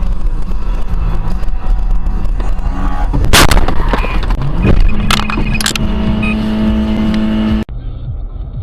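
Car collision heard from a dashcam: steady engine and road noise, then a loud crash impact a little over three seconds in, followed by two sharper knocks. A steady horn tone then sounds for about two and a half seconds before the sound cuts off suddenly to quieter road noise.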